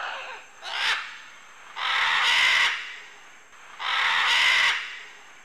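Parrot squawking: two short harsh calls, then two long rasping screeches about two seconds apart.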